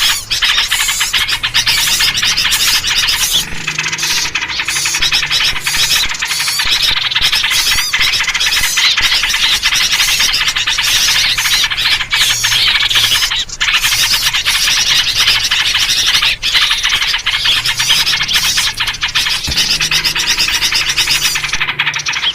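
Dense chorus of many small songbirds chirping and calling over one another without a pause, including the chattering calls of yellow-vented bulbuls (trucuk).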